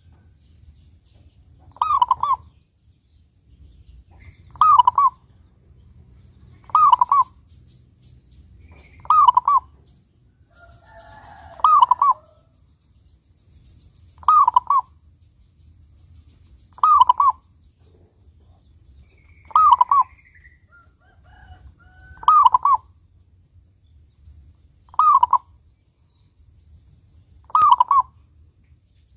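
Zebra dove (perkutut) cooing: a short, clear phrase of cooing notes repeated about every two and a half seconds, eleven times. Faint chirps from another bird come in briefly near the middle.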